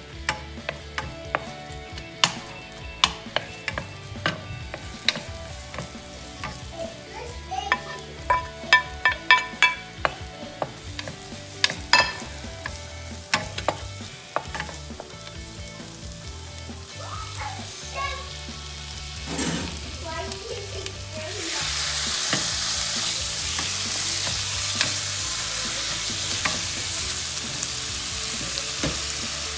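A wooden spoon stirs onion and garlic frying in a non-stick pan, knocking and scraping against it many times over a light sizzle. About two-thirds of the way through, raw diced chicken goes into the hot pan and a loud, steady sizzle starts and holds.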